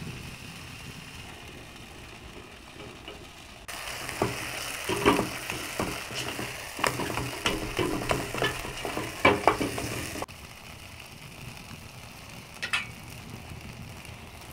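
Food frying in a pot with a steady sizzle. Through the middle stretch a spoon stirs and scrapes against the pot in a run of irregular clicks and scrapes, which starts and stops abruptly.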